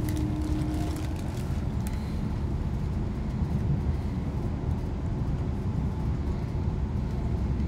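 Steady low rumble of a diesel train running at speed, heard from inside the carriage: wheels on the track and the train's running noise.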